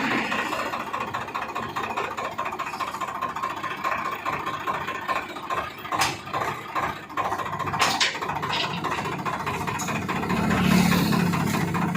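Swaraj 960 tractor's diesel engine running, with a few sharp knocks about six and eight seconds in; the engine note grows louder near the end.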